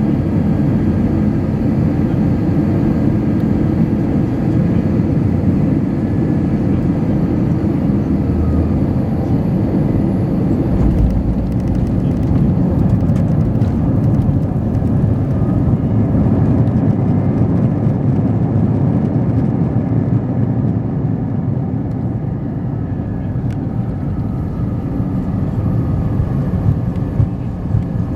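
Airbus A320 cabin noise: a steady, loud, low rumble of the engines and airflow. About eleven seconds in there is a low thump, followed by a few seconds of clicks and rattles. The rumble eases slightly later on.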